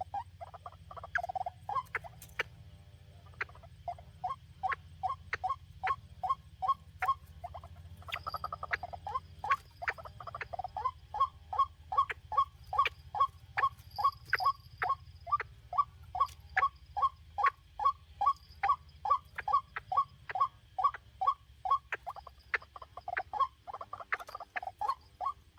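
White-breasted waterhen calling: a long run of short, repeated notes, about two to three a second, that pauses briefly a few seconds in and grows louder about halfway through.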